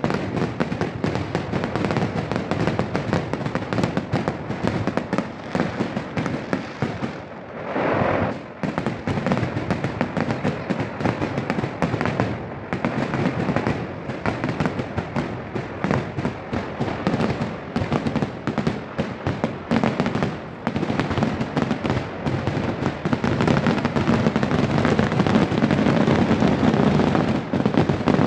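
Kerala temple fireworks (vedikettu): a dense barrage of firecracker bangs going off in rapid, continuous succession, thinning out briefly about seven seconds in.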